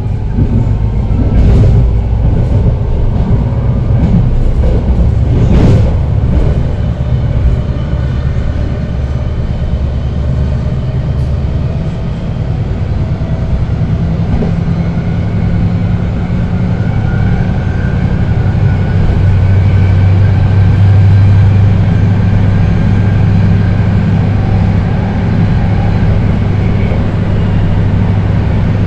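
BART Rohr B2 train car with Adtranz 1507C traction motors running along the track. A motor whine rises slowly in pitch over a heavy wheel-and-rail rumble as the train picks up speed, and two sharp clacks come in the first six seconds.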